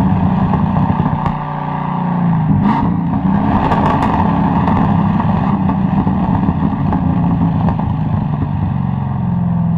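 Corvette C6 Z06's 7.0-litre LS7 V8 running steadily while driving, easing off briefly about two seconds in, with a few sharp exhaust crackles around four seconds in.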